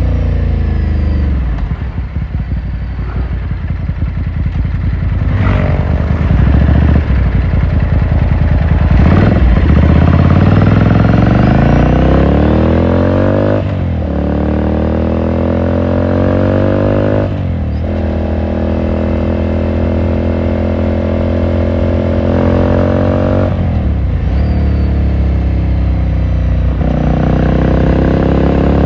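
Ducati Scrambler Sixty2's air-cooled L-twin engine and exhaust heard from the rider's seat: the revs fall off at first and run low for a few seconds, then the bike accelerates, the pitch climbing and dropping back at each of several upshifts.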